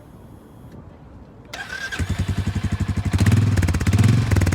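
Royal Enfield Meteor 350's single-cylinder engine being started: a brief starter sound about a second and a half in, then the engine catches half a second later and runs with a rapid, even pulse, getting louder from about three seconds in.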